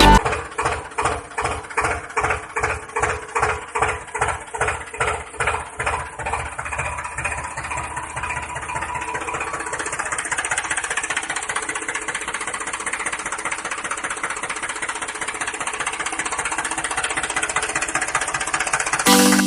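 Tractor-style engine chugging: slow beats, about three a second, quicken over the first half until they blend into a steady running sound.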